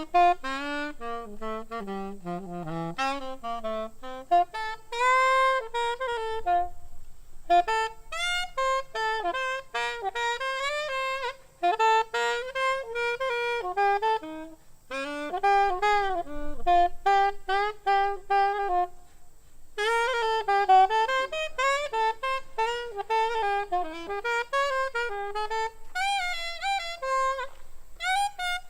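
Saxophone playing a fast jazz melody line. Quick runs of notes come in phrases separated by brief pauses for breath.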